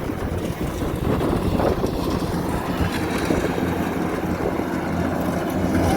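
Kubota DC70 combine harvester's diesel engine running steadily under load, a constant low drone with mechanical clatter.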